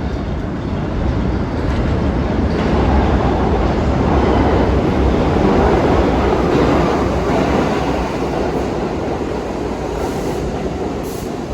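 New York City subway train moving along the track. Its rumble and wheel noise build to a peak about halfway through, then ease off.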